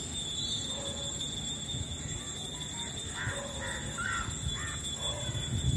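A bird calling four or five times in short calls, about three to five seconds in, over a steady low outdoor rumble.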